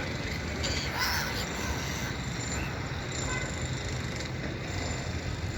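Gull calls over a steady low rumble of background noise, with the clearest call about a second in.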